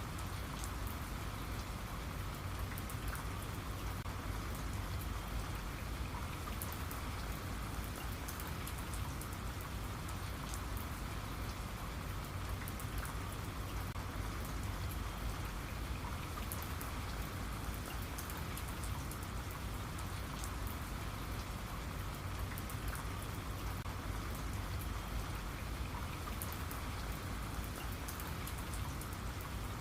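Steady rain falling on a surface, with many small drops pattering close by.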